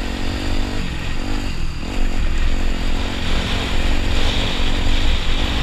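Dirt bike engine running under way; its pitch dips briefly about a second and a half in, then comes back up and holds steadier and a little louder.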